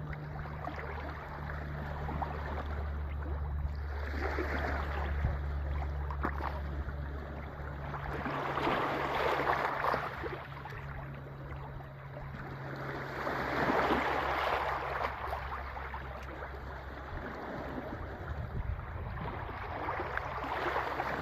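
Sea waves washing onto the shore, swelling and easing about every five seconds. A steady low hum runs underneath for the first part and drops away partway through.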